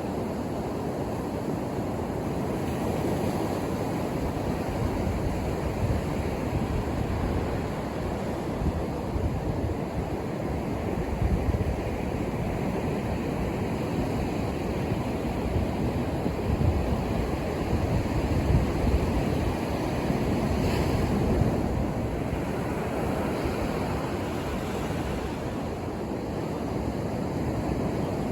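Ocean surf breaking and washing up a beach: a continuous low rushing noise that swells louder several times as waves come in.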